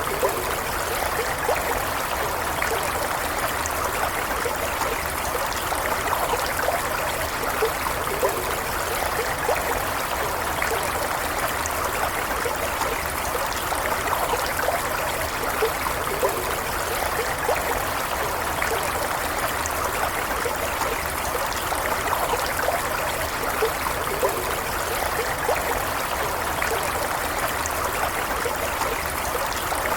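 A shallow stream running steadily, with a continuous babble and small bubbling and trickling flecks over it.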